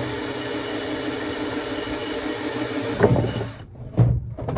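Power drill running steadily at full speed to enlarge a hole in a water drum. It stops suddenly about three and a half seconds in, and a few sharp knocks follow.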